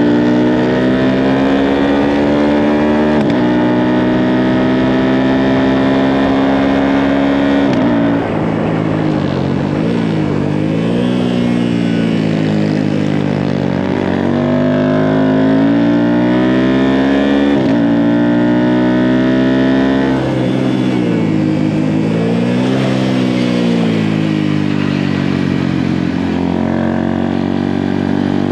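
Small Honda minibike single-cylinder engine heard on board during a track lap, revving hard. Its pitch climbs and drops suddenly several times as it changes gear, then dips and rises again through the corners.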